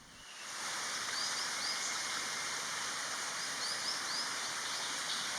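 Steady outdoor stream-side ambience, a rushing noise that fades up over the first second, with two quick runs of about three faint, thin, high chirps from a small bird.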